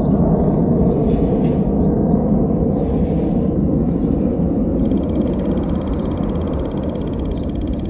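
Wind rushing over the camera's microphone while riding a bicycle, a steady low rumble. About five seconds in, a fast, even ticking joins it.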